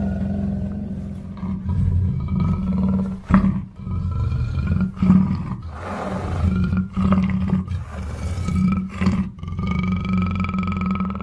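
Black panther calling: a long, continuous low-pitched vocalisation with a few brief breaks.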